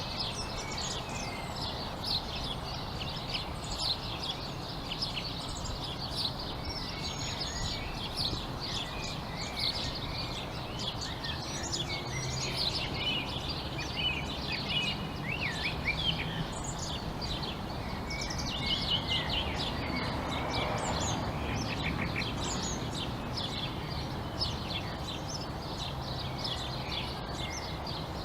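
Many small songbirds chirping and twittering at once, a dense overlapping chorus of short high calls, over a steady low background hum.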